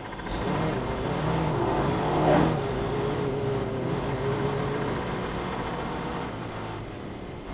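Tractor-trailer's diesel engine pulling away and accelerating from a stop, with a brief sharp noise about two seconds in.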